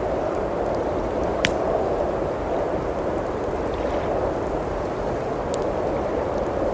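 Steady rushing blizzard wind with the occasional sharp pop of a crackling wood fire, the loudest pop about one and a half seconds in.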